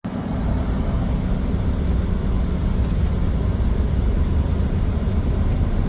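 Steady low rumble of road and engine noise from a moving vehicle, strongest in the bass, with no clear changes.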